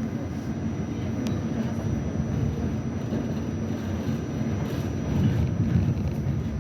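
R68 subway train running on the track, a steady low rumble.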